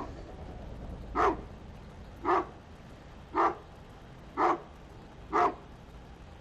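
A large dog barking: five single barks, evenly spaced about a second apart.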